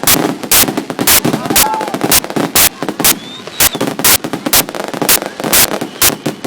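Fireworks display: a rapid, irregular series of sharp bangs, about two to three a second, over the murmur of a crowd.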